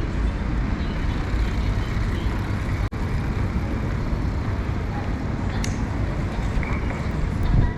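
Busy city street ambience: steady traffic noise with a low rumble and a murmur of crowd voices. The sound briefly cuts out about three seconds in.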